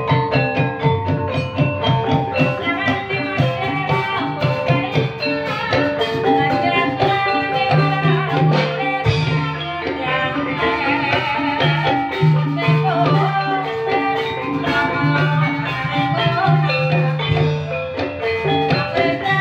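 Live Javanese gamelan music accompanying an ebeg dance: mallet-struck metallophones play a busy melody over drums, without a break.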